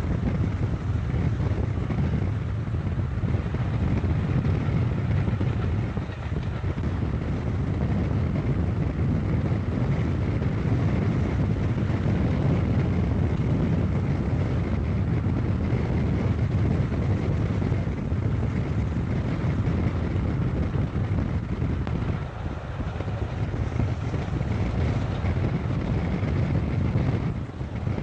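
Steady low rumble of a moving car with wind buffeting the microphone. It dips briefly a few times.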